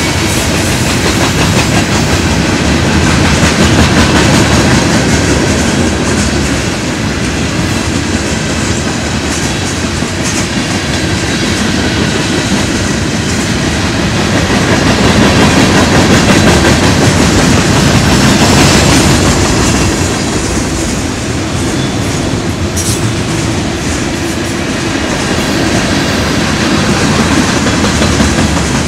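Freight train cars (steel coil cars, boxcars and bulkhead flatcars) rolling past close by: a steady, loud rumble of steel wheels clattering over the rail.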